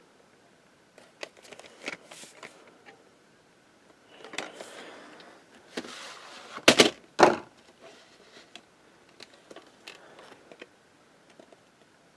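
A scattered series of clicks and knocks, with a rustling stretch and then two loud thumps about seven seconds in.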